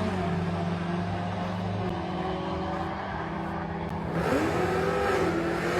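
Car engine running steadily. About four seconds in, a louder engine note comes in, rises in pitch and then holds steady.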